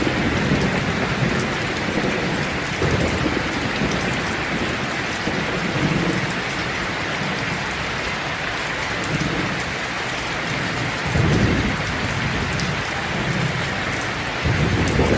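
Steady heavy rain falling, with low rolls of thunder rumbling under it; a stronger rumble swells about two thirds of the way through and another near the end.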